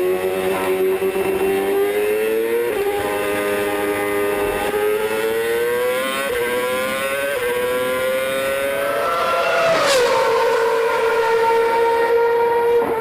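Scuderia Toro Rosso's 2.4-litre V8 Formula One engine running hard, its pitch climbing slowly for about nine seconds. The pitch then falls quickly with a sharp click about ten seconds in and holds steady.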